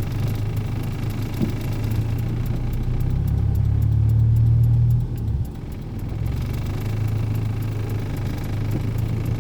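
Toyota Corolla sedan's engine running steadily, growing louder over a few seconds, then dropping off suddenly about halfway through and running on at a lower level.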